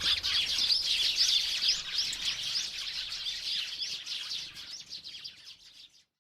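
Wild birds chirping and twittering together, many quick overlapping calls, fading out near the end.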